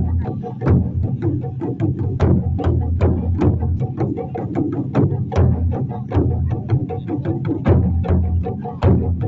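Japanese taiko drums played in an ensemble: a fast, dense run of sharp strikes, several a second, over a deep, sustained boom from the large drums.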